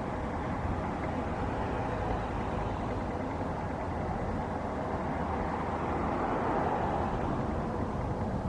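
Jet airliner engines running with a steady rumble and a faint whine, swelling slightly about six to seven seconds in.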